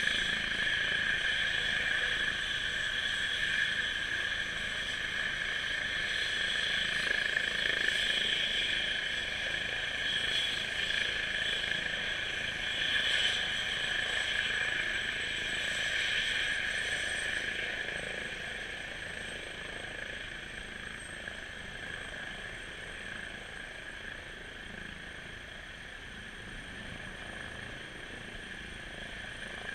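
Eurocopter EC135 twin-turbine air ambulance helicopter running, a steady high turbine whine over rotor noise, fading noticeably over the second half.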